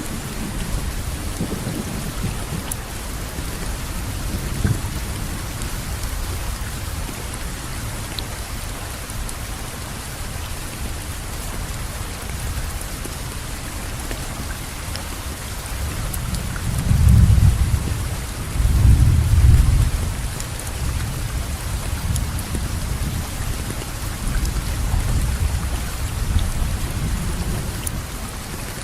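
Steady rain falling, with two low rolls of thunder close together about two-thirds of the way in.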